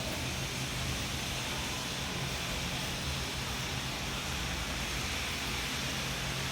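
Steady hiss with a low hum underneath, even and unchanging.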